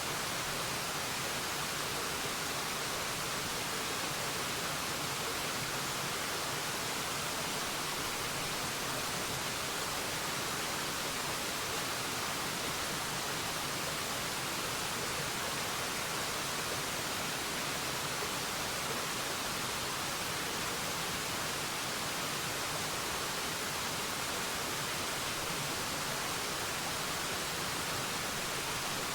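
Waterfall: a steady, even rush of falling water, more hiss than rumble, with no change throughout.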